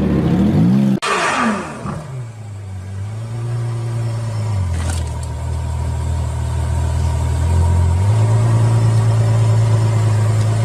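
Car engine revving with wavering pitch, cut off suddenly about a second in by a brief noisy burst. After that comes a steady engine drone that shifts pitch twice.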